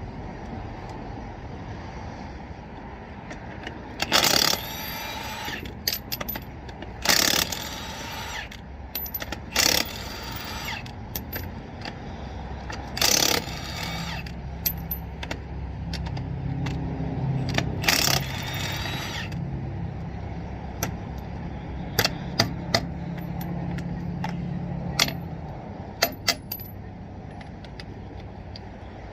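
Impact wrench on a 7/8 socket loosening the RV wheel's lug nuts in five short bursts of about a second each, followed near the end by a run of sharp metallic clinks as the nuts and socket knock together.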